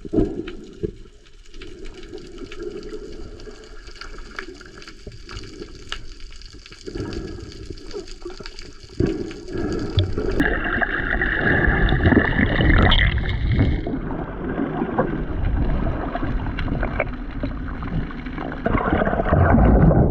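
Water heard through a camera held underwater: a muffled, steady swishing and gurgling. It grows clearly louder from about nine seconds in.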